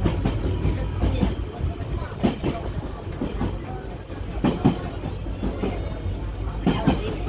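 V-train (Baekdudaegan Canyon Train) running along the track, heard from on board: a steady low rumble with irregular clacks and knocks as the wheels pass over the rail joints.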